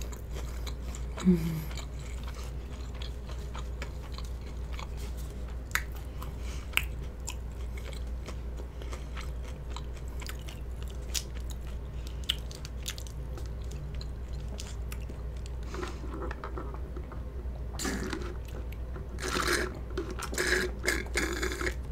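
Close-miked mouth sounds of someone chewing a mouthful of chewy rice cake: scattered small wet clicks and smacks. Near the end come louder sips and swallows from a canned drink.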